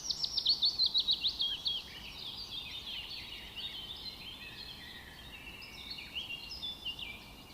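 Small birds singing: a fast run of sharp, falling chirps, about ten a second, for the first two seconds, then quieter overlapping chirps and whistles.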